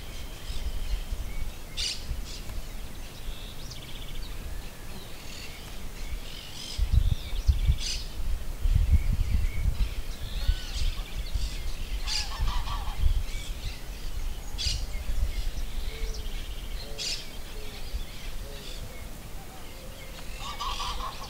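Birds calling: short, sharp calls every few seconds, with a low rumble from about 7 to 10 seconds in.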